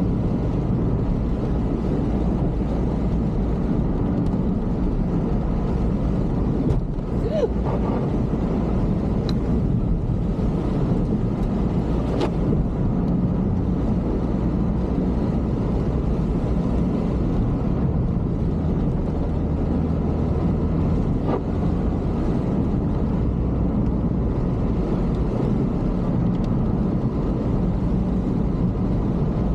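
A vehicle engine running steadily on the move: an even low rumble with wind on the microphone.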